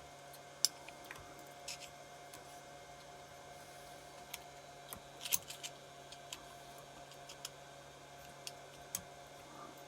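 Scattered light metallic clicks and taps of hand tools and small engine parts being handled, as a cylinder head dome nut and its washer are taken off a small motorcycle engine, with a small cluster of clicks about halfway through. A faint steady hum sits underneath.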